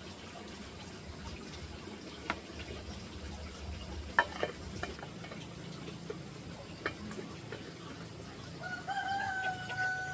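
A rooster crowing, one long held call that starts near the end. Before it there are a few scattered sharp clicks or knocks over a low background hum.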